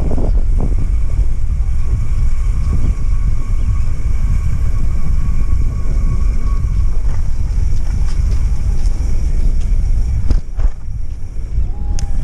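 Wind rumbling on the microphone, a loud steady low buffeting that eases briefly about ten seconds in.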